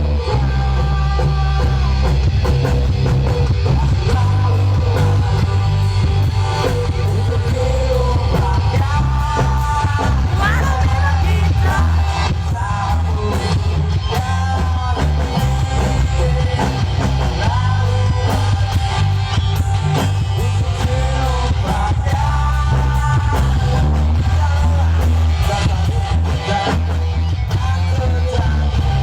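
A song with singing played loudly through a sound system, with a heavy, steady bass under the vocal melody.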